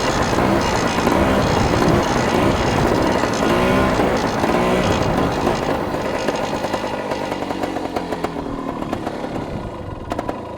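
Dirt bike engine revving up and down as the bike is ridden, with a buzzy two-stroke-like note. It fades gradually over the last few seconds.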